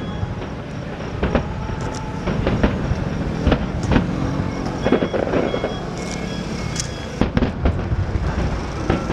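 Aerial fireworks display: a continuous low rumble of booms with many sharp cracks and bangs going off irregularly throughout.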